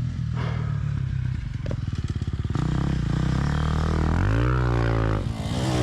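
2024 KTM 350 XC-F's single-cylinder four-stroke dirt bike engine running near idle, with a few knocks and scrapes. It revs up and back down once about four seconds in.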